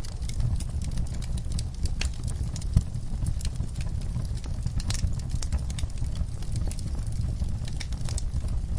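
Wood fire burning in a fireplace: a steady low rumble of flames with frequent sharp crackles and pops, one louder pop about three seconds in.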